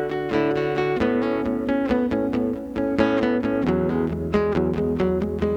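Acoustic guitar strummed in an instrumental break of a blues song, changing chords about a second in and again near four seconds.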